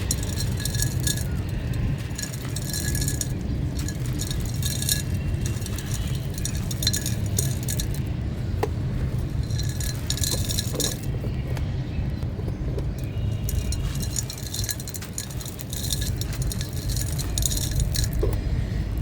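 Brittle stony chunks being crushed and crumbling: gritty crackling in repeated bursts, with small hard pieces clinking and rattling as they fall, over a steady low hum.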